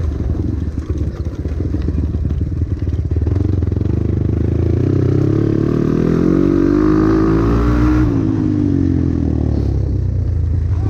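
Trail motorcycle engine running under a rider through mud, the revs climbing from about four seconds in to a peak around eight seconds and then dropping back.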